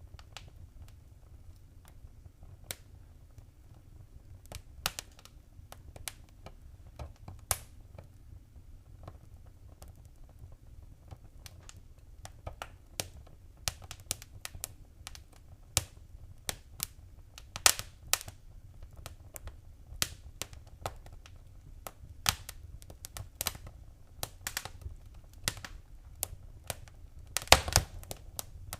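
Fireplace fire crackling: irregular sharp pops and snaps over a low steady rumble. The pops come more often in the second half, with a quick cluster of loud snaps near the end.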